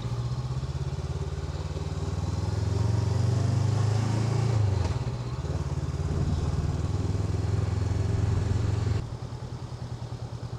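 Honda NX500's parallel-twin engine running as the motorcycle rides at low speed. The engine note swells a couple of seconds in, eases briefly near the middle, and drops to a lower, pulsing note near the end as the throttle closes.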